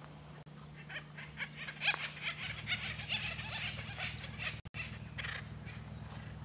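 Acorn woodpeckers calling: a run of short, repeated calls that is busiest in the middle, over a steady low hum.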